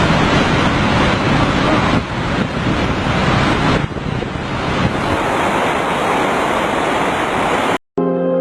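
Loud continuous rushing noise with no clear pitch, dipping briefly about two and four seconds in. Near the end it cuts off abruptly and soft music begins.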